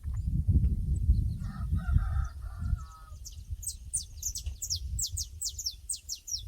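A rooster crows briefly about a second and a half in, over a low rumbling noise that fills the first three seconds. A small bird then sings a fast series of high, downward-sliding chirps to the end.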